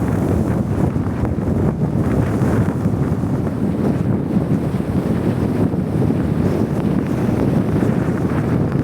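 Blizzard wind blowing steadily, a continuous rushing noise with heavy wind buffeting on the microphone.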